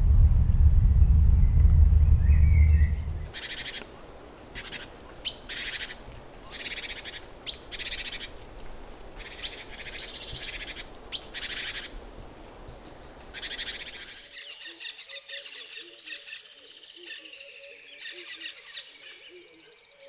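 A loud low rumble for about three seconds, then a bird giving a long, irregular series of sharp, high, short calls. After that comes quieter, continuous chirping song.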